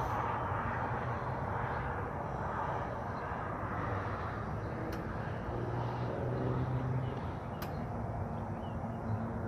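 Outdoor ambience: steady background noise with a low engine-like hum, and a few faint clicks.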